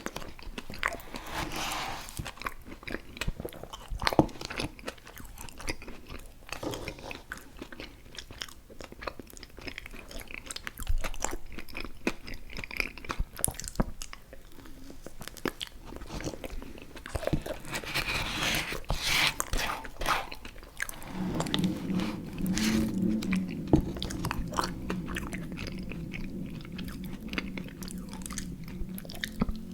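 Close-miked chewing of chewy fruit candies (Airheads Bites and Tootsie Fruit Chews): a dense run of sticky mouth clicks, smacks and bites. A low steady hum joins about two-thirds of the way in.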